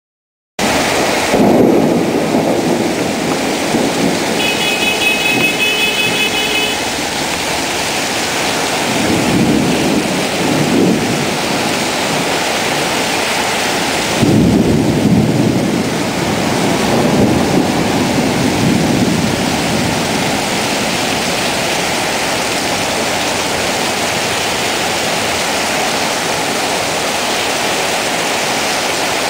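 Heavy rain pouring steadily, with low rumbles of thunder swelling up a few times in the first half.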